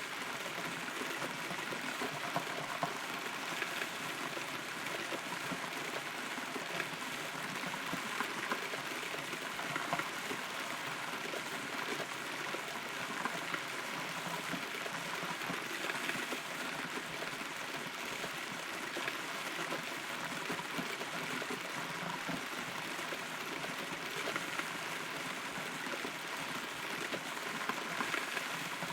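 Steady rain heard from inside a hollow rotten tree, a constant patter with many small drop ticks.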